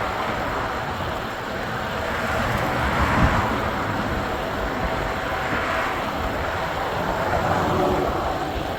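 Steady wind and road noise while riding an e-bike, with a brief louder swell about three seconds in.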